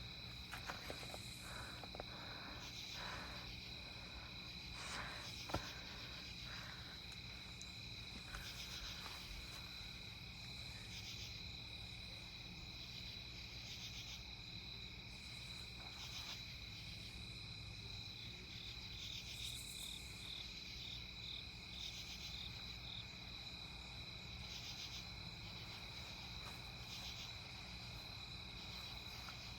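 Crickets chirping steadily in a high, continuous trill over a low, steady hum, with a single sharp click about five seconds in.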